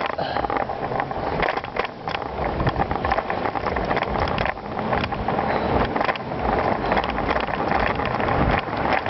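Bicycle rolling over a gravel trail: tyres crunching on loose stones and the bike rattling, a steady rough noise full of small clicks, with wind on the microphone.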